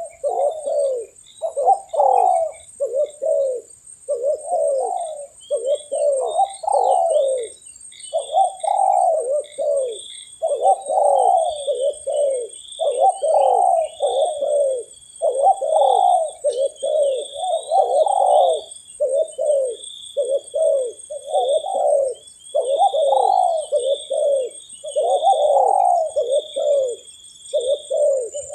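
Spotted doves cooing over and over in rapid, overlapping phrases, with higher chirps from small birds now and then and a steady high-pitched whine.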